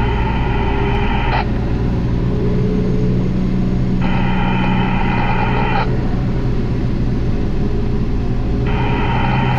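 Garbage truck engine running steadily, with a high, multi-toned alarm sounding for about two seconds at a time: it stops just after a second in, sounds again about four seconds in, and starts once more near the end.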